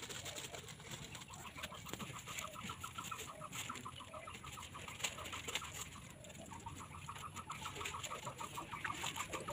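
Faint bird calling in a rapid even series of short notes, about ten a second, in two runs with a break around the middle.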